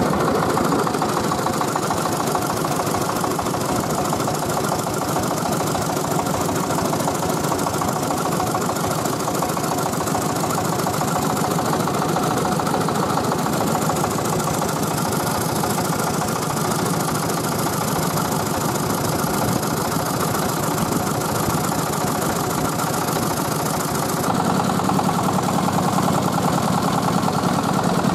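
Tiger 24 hp diesel engine of a three-wheeled mobile rice mill running steadily. About 24 seconds in it grows slightly louder and deeper.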